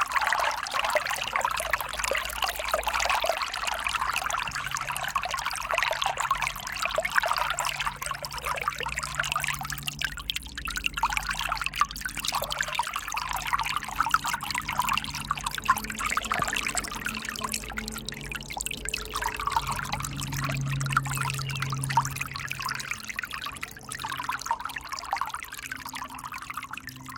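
River water flowing and splashing, a continuous rushing trickle that eases and swells a few times. A faint low steady hum runs underneath.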